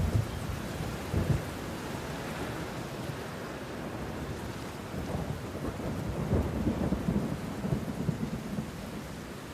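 Steady rain falling, with low rumbles of thunder: two short rumbles in the first second and a half, then a longer rolling rumble from about five to eight and a half seconds in.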